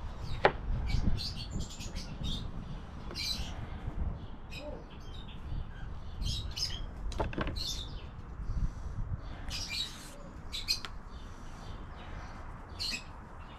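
Small birds chirping, many short high calls scattered throughout, over a low steady rumble. A couple of sharp clicks, a knife tapping the cutting board, come about half a second in and again about seven seconds in.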